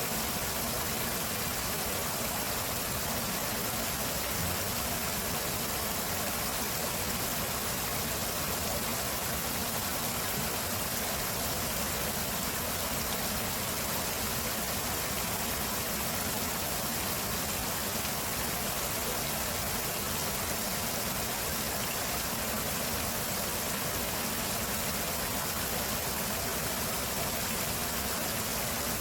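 Stream water flowing steadily, an even rushing hiss with no breaks.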